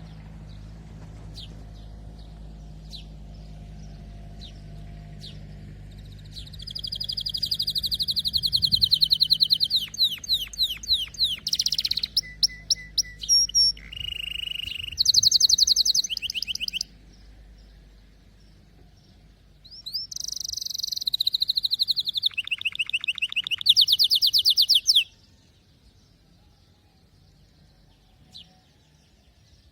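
Domestic canary singing: two long song phrases made of fast trills and rolls, the first from about six seconds in to about seventeen, the second from about twenty to twenty-five seconds, with scattered single chirps between and after.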